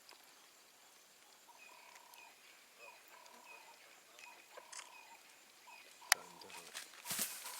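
Lion cubs calling: a string of short, high-pitched calls repeated every half second or so. A sharp click comes about six seconds in, and a brief noisy burst near the end.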